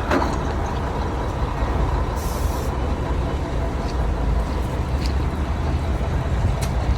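Mack CL713 tri-axle dump truck's diesel engine running steadily, with a short hiss of air about two seconds in.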